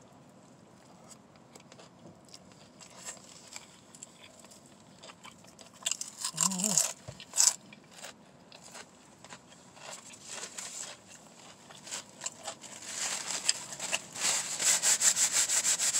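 Close-up eating sounds of a sub sandwich: a bite, then chewing with small wet mouth clicks and a short hum about six seconds in. From about thirteen seconds the paper sandwich wrapper crinkles and rustles in quick crackles, louder than the chewing.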